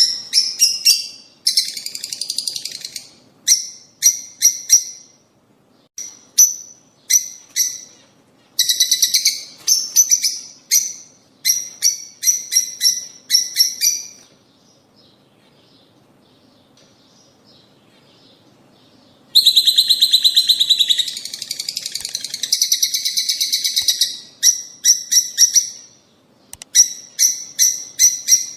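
Lovebirds calling: quick runs of sharp, high-pitched chirps, broken by stretches of fast chattering trills. There is a lull of a few seconds about halfway through.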